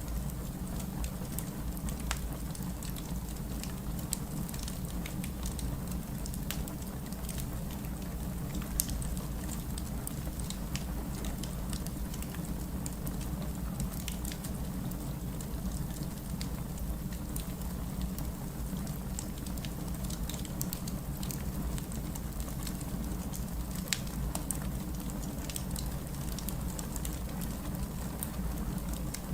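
Fireplace crackling, with frequent small snaps and now and then a sharper pop, over the steady noise of heavy rain.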